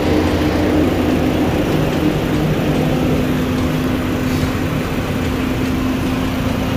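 Toyota Etios Liva's engine idling steadily.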